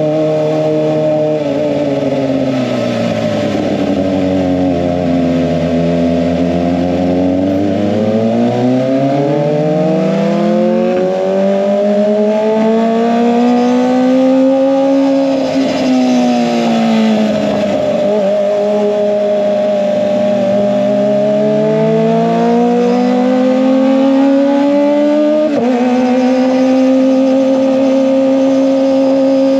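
Kawasaki ZX-25R's inline-four engine through an SC-Project exhaust, running loud and continuously. Its pitch rises and falls slowly over several seconds, and jumps up suddenly near the end.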